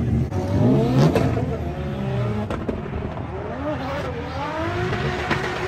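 Drift car engine revving, its pitch rising and falling again and again while the car is driven sideways.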